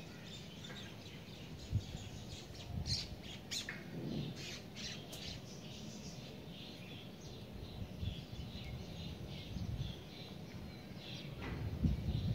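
Small birds chirping in many short, high calls, scattered irregularly, over a low rumble that swells near the end, with one brief thump about two seconds in.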